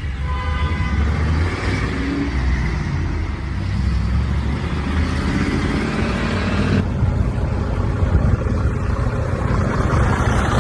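Car driving: steady engine and road rumble, with a faint whine in the first couple of seconds and an abrupt change in the sound about seven seconds in.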